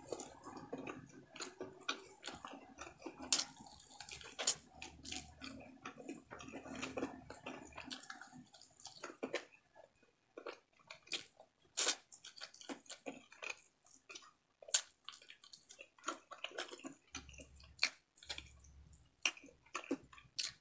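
Close-miked chewing of frog meat and rice: irregular wet mouth clicks and smacks, denser in the first half and sparser later.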